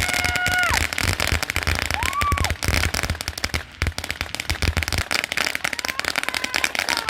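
Firecrackers going off in a rapid, unbroken crackle of pops. A short held voice-like cry is heard near the start.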